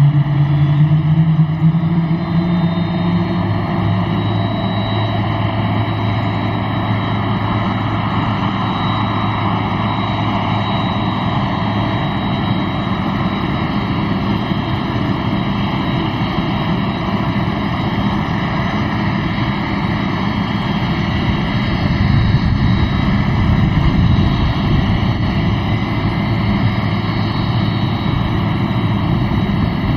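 Jet engines of a JAL Boeing 767-300ER running loudly and steadily, with a low hum that rises in pitch over the first few seconds.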